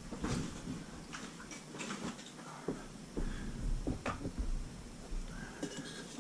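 Scattered light taps, clicks and scrapes of tools and metal parts being handled while a gas water heater is cleaned out.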